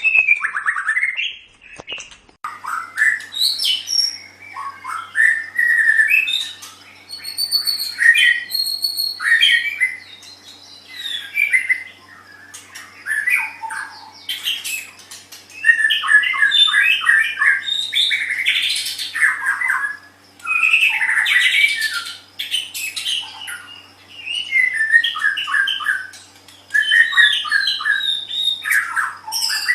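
White-rumped shama singing at length: loud, varied phrases of clear whistles, rapid repeated notes and harsh squawky notes, separated by short pauses.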